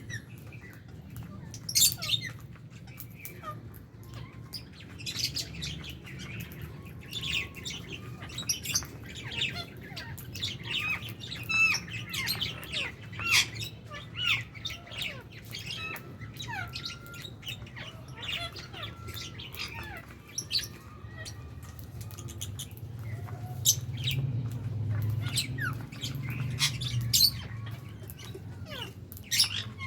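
A flock of lovebirds chirping and squawking: many short, sharp, high-pitched calls overlapping without pause.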